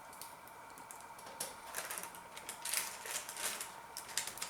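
A person eating, with irregular clusters of quick, sharp chewing and mouth clicks starting about a second in, over a faint steady high tone.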